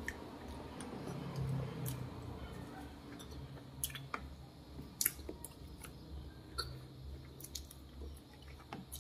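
Close-up mouth sounds of a person chewing small soft berries, with scattered small wet clicks and smacks.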